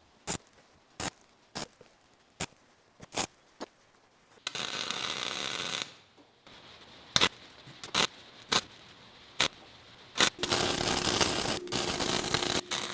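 Steel cable strands being welded on: a run of short sharp crackling tacks, a steady hiss of about a second and a half, more short tacks, then a longer continuous crackle of welding near the end.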